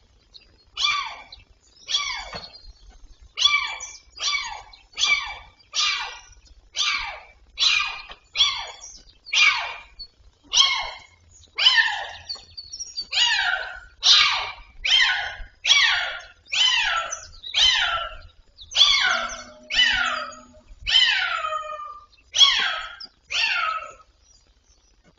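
An animal calling over and over: short cries that fall in pitch, about one a second, some twenty in a row.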